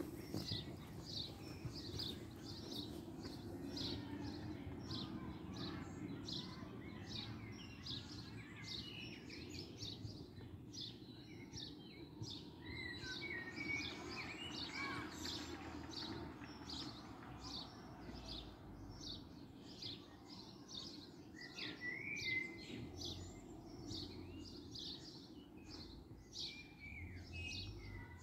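Birds singing: short high notes repeat about once or twice a second, with other chirps now and then, over a low steady background hum.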